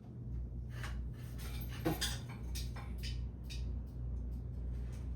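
1994 52-inch Hunter ceiling fan running on high speed, a steady low hum with a few faint light knocks.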